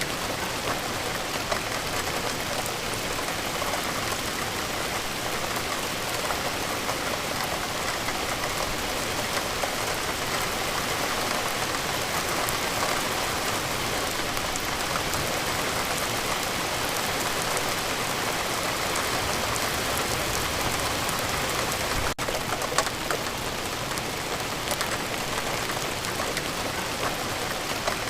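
Steady rain falling, a dense even hiss of drops pattering on surfaces. About two-thirds of the way through there is a momentary break and a single sharper click.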